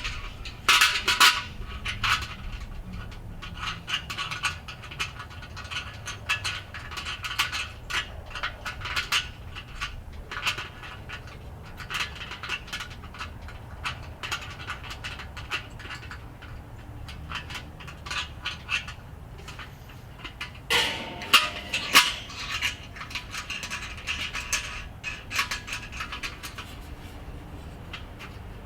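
Small metal clicks and scrapes against the steel lid of a Weber kettle grill as its thermometer is fastened in place from the inside. There are louder bursts of clattering about a second in and again about three-quarters of the way through.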